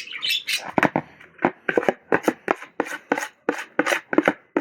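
Slime ingredients being stirred briskly in a container: a quick run of sharp clacks, about three to four a second.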